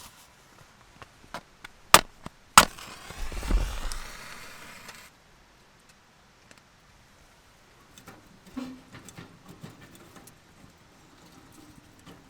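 Firewood being split: two sharp knocks on wood about half a second apart, then a couple of seconds of cracking and splintering that stops suddenly. Faint clicks and handling noises follow.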